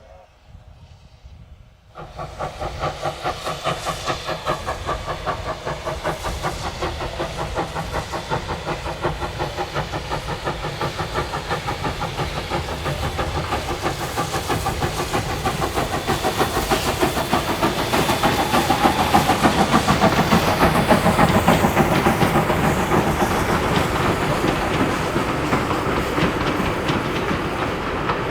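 Steam locomotive Ww 480, a NZR Ww class 4-6-4T tank engine, running past with rapid, even exhaust beats, steam hiss and rail clatter. The sound starts abruptly about two seconds in and grows louder toward the middle.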